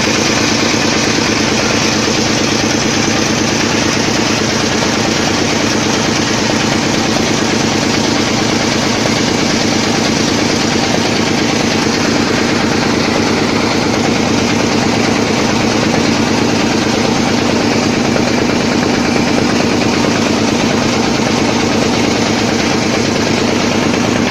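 A small boat's engine running loud and steady at a constant speed.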